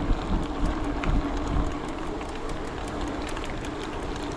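Bicycle riding noise: a steady hum with faint, frequent ticking, and wind rumbling on the microphone that is stronger in the first second or two.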